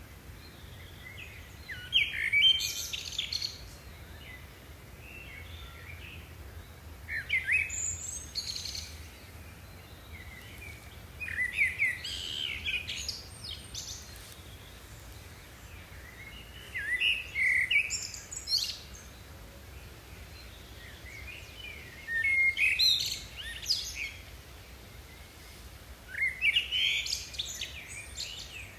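A songbird singing the same short, chirping phrase over and over, six times, about every five seconds, over a steady low hum.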